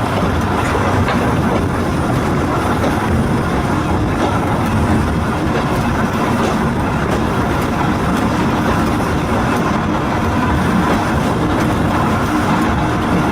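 Volk's Electric Railway car running along its track: a steady rumble with a few faint clicks.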